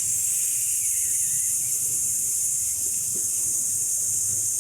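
A person's long, steady "sssss" hiss through the teeth on a slow exhale: the lung sound of the Taoist Six Healing Sounds qigong practice.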